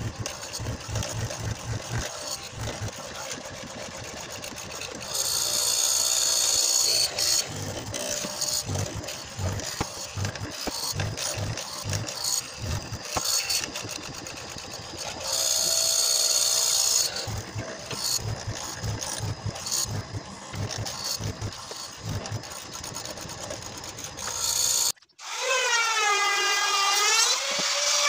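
Carpentry work on a wooden frame: a power drill runs in two bursts of about two seconds each, amid irregular knocks and handling of timber. Near the end the sound breaks off suddenly and a wavering high tone follows.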